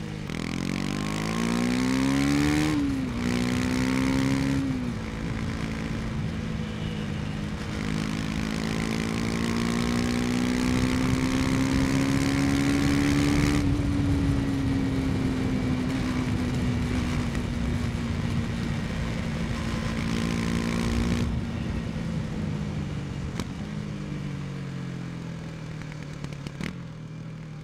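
KTM 250 Duke's single-cylinder engine under way: the revs climb and drop sharply twice as it shifts up through the gears, then hold at cruise, rising slowly and easing off gradually, and falling as the throttle is rolled off near the end. Wind rushes steadily over the bike.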